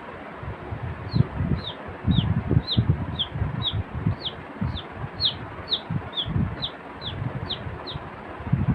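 A man mimicking a baby chick's peeping with his mouth: a run of short, high, falling peeps, about two a second, starting about a second in. Low muffled bumps sound underneath.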